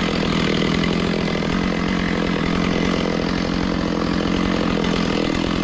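Small petrol engine running steadily at an even speed, with no revving.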